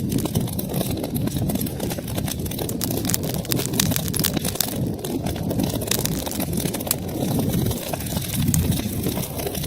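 Wood fire crackling in a fireplace: a steady low rush of burning with many sharp pops and snaps scattered over it.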